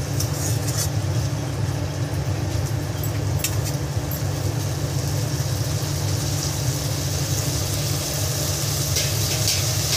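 Prawns and chopped onion frying in oil in a kadai, stirred with a metal spatula that scrapes and taps the pan a few times, over a steady low mechanical hum.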